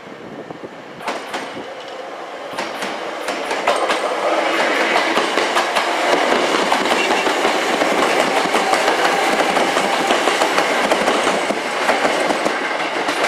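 Hankyu 6300 series electric train pulling out and running past at close range, its wheels clicking over the rail joints. The running noise builds over the first few seconds and then stays loud.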